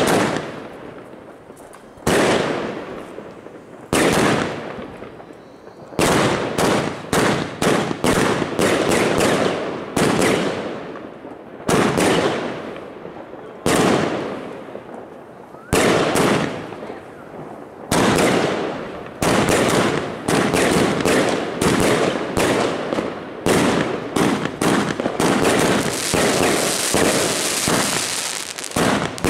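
Evolution Fireworks Euphoria 100-shot firework cake firing. Sharp bangs come one about every two seconds at first, then in rapid volleys of several shots a second, each bang fading away afterwards. A steady crackling hiss rises over the last few seconds.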